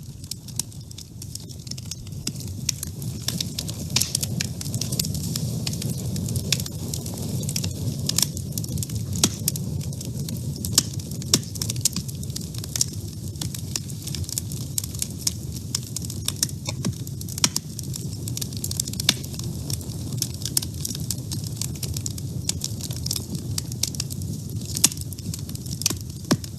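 Wood fire burning in a woodstove: frequent sharp, irregular crackles and pops over a low steady rumble of the flames.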